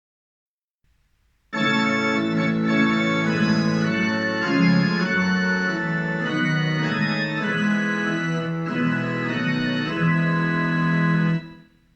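Organ playing a run of sustained chords. It starts suddenly about a second and a half in, out of dead silence, and breaks off just before the end, ahead of the singing.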